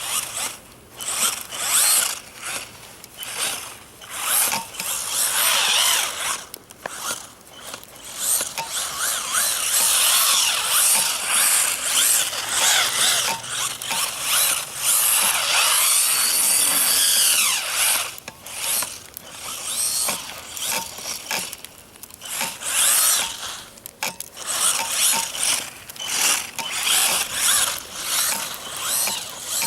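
Brushless electric motor and geared drivetrain of a Traxxas Mini E-Revo VXL radio-controlled truck whining under repeated bursts of throttle, the pitch rising and falling with each burst. The longest stretch of throttle runs through the middle, about ten seconds.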